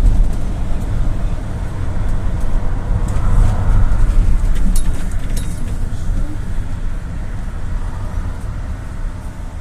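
GAZelle City minibus on the move: a steady engine and road rumble, with a few faint clicks or rattles about five seconds in.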